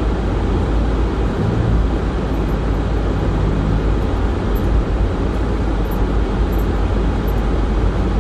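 Steady low rumble of road noise heard inside a moving car: tyres running on a snow-covered road, with the engine underneath.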